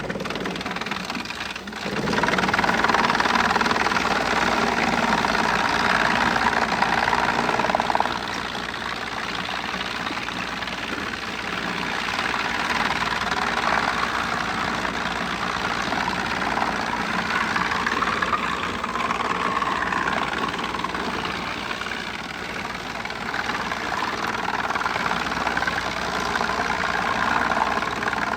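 Wood chipper running: a steady engine-and-machinery noise that gets sharply louder about two seconds in and drops back about six seconds later, then holds steady.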